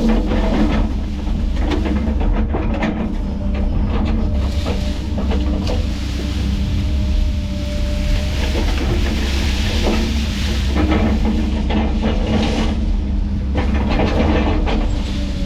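Heavy diesel machinery running steadily, with a constant low rumble and repeated metallic clanks and knocks throughout.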